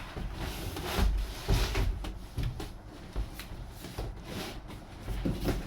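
A large cardboard box being heaved and shifted about, with several irregular knocks and thumps and cardboard rustling and scraping.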